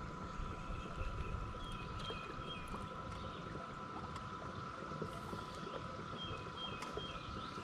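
Steady electric whine, typical of a jon boat's trolling motor running, with a bird singing a short phrase of four or five falling notes twice, about two seconds in and again near the end.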